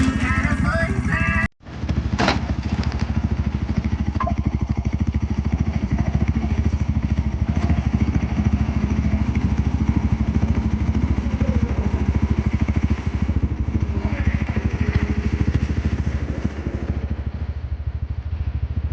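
A small motor vehicle engine running steadily with a fast, even pulse, like a motorbike's. It cuts out abruptly for a moment about a second and a half in, then carries on.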